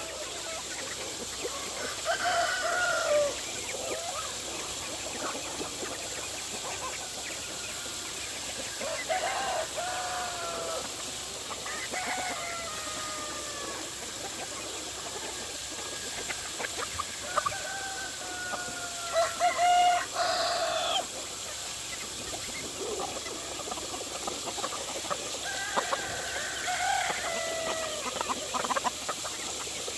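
A flock of chickens calling, with roosters crowing in turn about five times, each crow a second or two long, the loudest about two-thirds of the way through.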